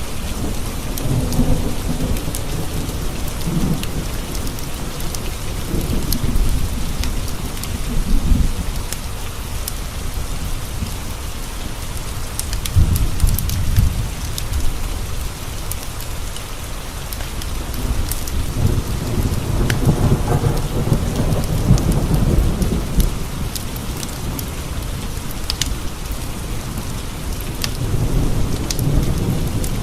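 Steady rain with rolls of low thunder swelling and fading several times, and scattered sharp ticks throughout.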